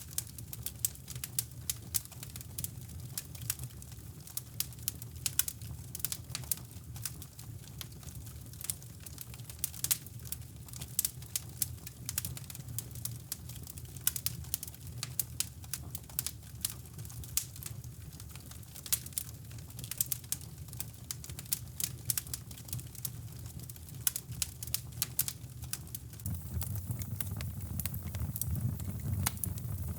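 Wood fire crackling in a fireplace, with irregular sharp pops and snaps, over a steady deep brown-noise rumble that swells louder about 26 seconds in.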